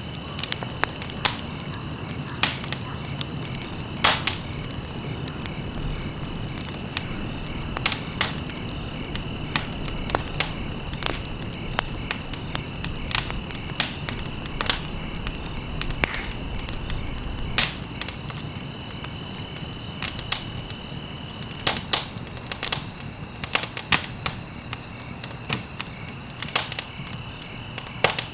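Wood fire in a fireplace crackling, with irregular sharp pops (the loudest about 4, 8 and 17 seconds in) over a low, steady rush of flame. A steady high tone runs underneath.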